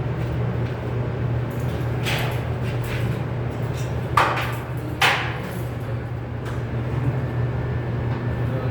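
A steady low hum with three sharp knocks, about two seconds in and again near four and five seconds, each ringing briefly.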